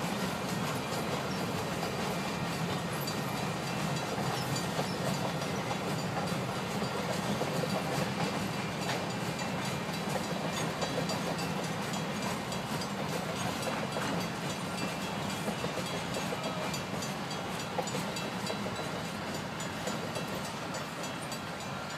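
A train rolling past, its cars' wheels running over the rails with a steady rumble and a clickety-clack of wheel clicks, easing off slightly near the end.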